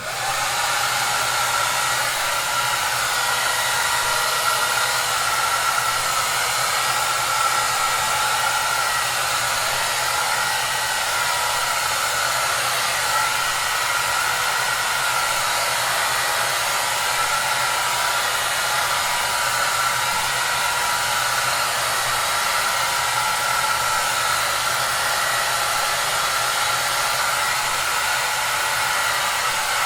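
Hair dryer running steadily: an even rushing blow with a faint low hum underneath. It rises from silence to full level within about a second at the start.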